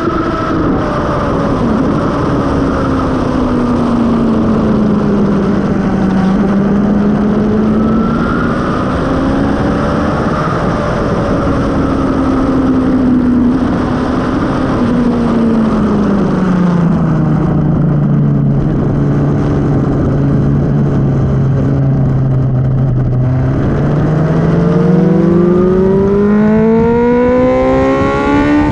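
Suzuki GSX-R750 K5 inline-four with a Mivv carbon exhaust, heard from onboard at speed over wind rush. The engine pitch drifts down and back up, holds low and steady for several seconds past the middle, then climbs steeply under hard acceleration near the end.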